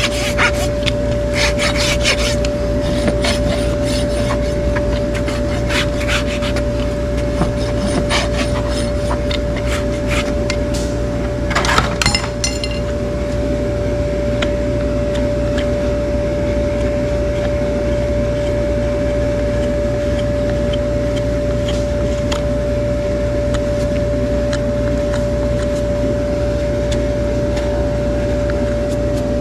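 Hard hoof horn being scraped in repeated strokes, with a quick burst of strokes about twelve seconds in, after which the strokes thin out. A steady hum runs underneath throughout.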